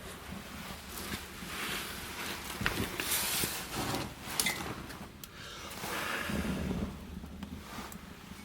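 Firewood burning in the firebox of a wood-fired bath: a rush of flame that swells and ebbs, with a few sharp crackles.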